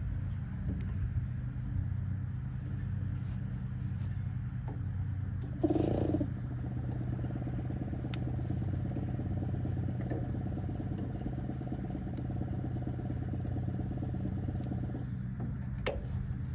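An engine running steadily with a low drone. A short clatter comes about six seconds in, and a second, higher-pitched drone runs alongside from then until about fifteen seconds.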